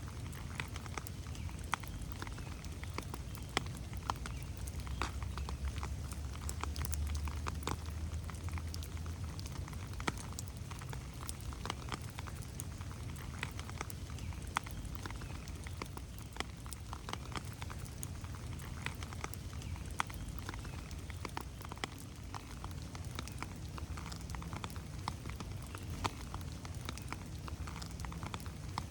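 Rain falling in a forest: a steady patter with many separate drops ticking sharply on leaves, over a low rumble that swells from about five to nine seconds in.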